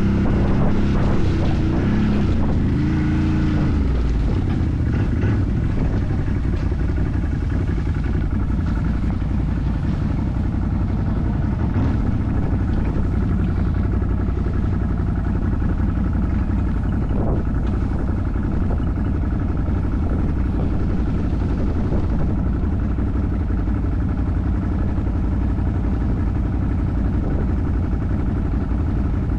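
Off-road vehicle engine running continuously under way, its pitch shifting in the first few seconds and then holding steady.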